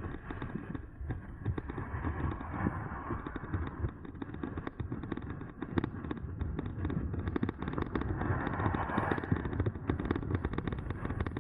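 Electric bike rolling fast over a rough, uneven sidewalk: a dense, irregular clatter of small knocks and rattles from the bike over a steady low rumble of tyres and air.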